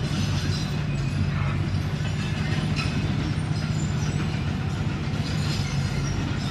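Komatsu D21P crawler bulldozer at work: its diesel engine runs steadily at an even pitch, with rough mechanical noise over the low hum.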